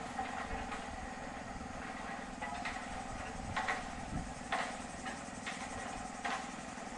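Steady machinery hum, like an engine running, with a few faint knocks scattered through.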